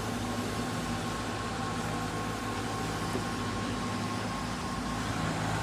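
A steady machine hum, with low droning tones and a faint whine over a soft hiss.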